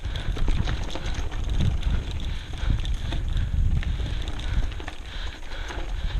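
Wind buffeting a GoPro's microphone during a mountain bike ride, with the bike rattling and clicking steadily over the dirt trail.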